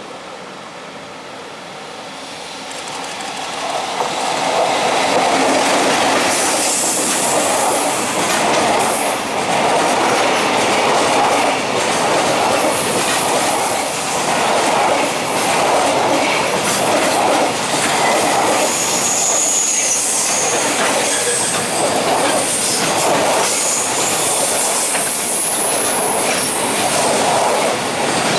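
Freight train hauled by an EF65 electric locomotive passing at speed. The wheels rumble and clatter over the rail joints, pulsing about once a second as the wagons go by, with brief high wheel squeals. The noise builds over the first few seconds, then holds loud.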